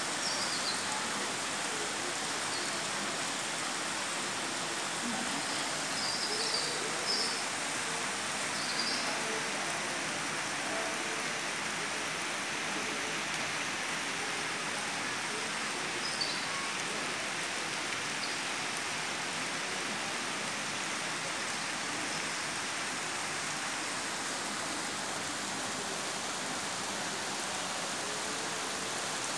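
Torrential rain pouring down steadily, a dense even hiss of rain on surfaces. A few short high chirps sound briefly over it, mostly about six to nine seconds in.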